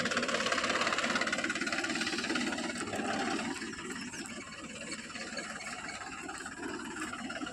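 Tractor engine running with a rapid knocking beat, a little quieter from about four seconds in.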